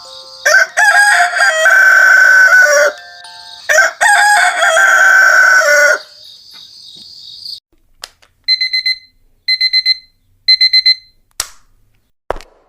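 Rooster crowing twice, each crow about two seconds long, then an electronic alarm clock beeping in three short bursts of rapid beeps about a second apart, followed by two sharp clicks near the end.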